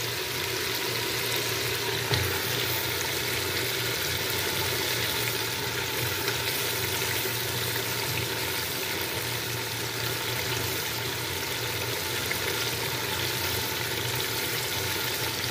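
Onion-tomato masala sizzling steadily in hot oil in a steel pot as raw mutton pieces are added to it.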